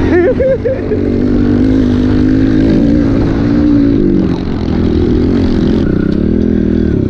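Pit bike engine running hard under throttle, its pitch rising and falling with the revs as the bike is ridden.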